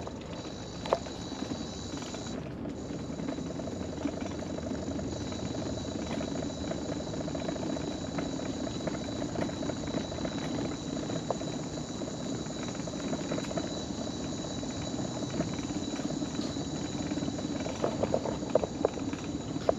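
Electric mobility scooter driving: a steady high motor whine over a rumble of the wheels rolling along a boardwalk, with a few light clicks, more of them near the end.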